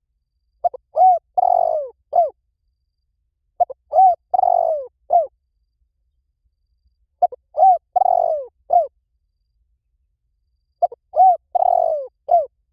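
Spotted dove cooing: four phrases of a few notes each, with a longer, rougher note near the end of each phrase. The phrases repeat about every three and a half seconds.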